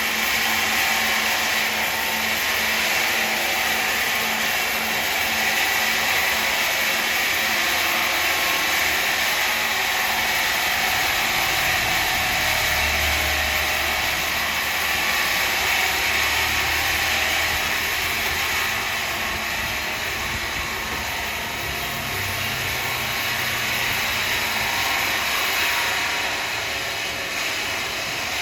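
Woodworking machinery running steadily with a continuous whirring, rushing noise; a low hum joins in for several seconds around the middle.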